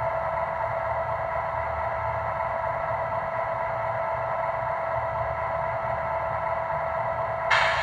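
MTH model NW2 diesel switcher's onboard sound system, playing a diesel engine running steadily through its small speaker over a low rumble. Near the end there is a short, sudden burst of hiss that fades quickly.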